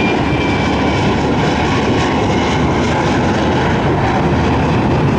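Jet airliner's engines at full power on a takeoff run, a loud steady roar. A thin high whine falls slightly in pitch and fades out about a second in.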